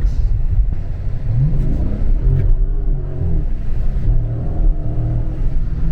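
Dodge Charger Scat Pack's 392 Hemi V8 accelerating under a steady low rumble, its note rising about a second and a half in and climbing again twice more.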